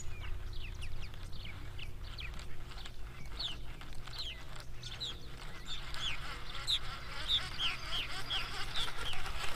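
A small bird calling over and over: short, high chirps that slide downward, a few a second, coming more steadily in the second half.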